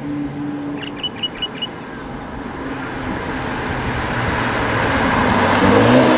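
Car driving on the road: engine and tyre noise growing steadily louder over the last few seconds, with the engine pitch rising near the end. Four short high chirps about a second in.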